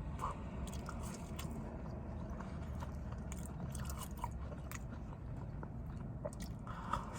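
A person chewing and biting food, with scattered small wet clicks and crunches.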